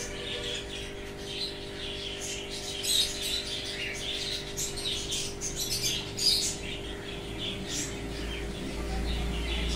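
Small birds chirping and tweeting in many short, overlapping calls, over a steady low hum.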